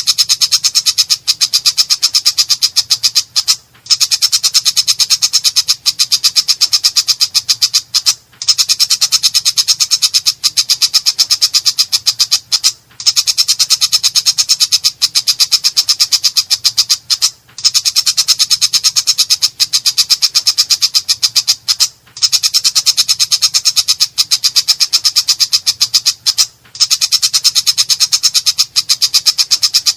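Long-tailed shrike (cendet) singing a fast, harsh, rattling chatter of rapidly repeated high notes, in phrases of about four and a half seconds broken by brief pauses.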